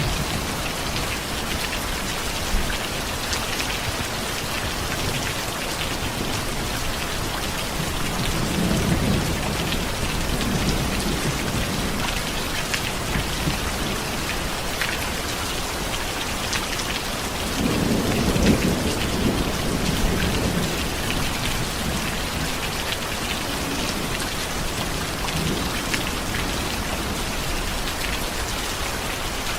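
Steady rain pattering, with two low rolls of thunder: one about a third of the way in and a louder one just past the middle.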